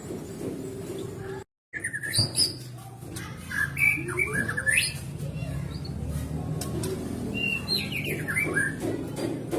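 White-rumped shama (murai batu) singing: short whistled phrases of quick sliding notes, starting about two seconds in and returning near the end. The audio cuts out completely for a moment just before the song begins.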